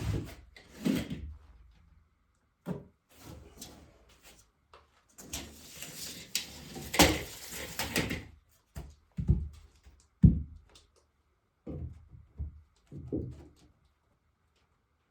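Wood being handled: irregular knocks and thuds, with a few seconds of scraping and rustling in the middle.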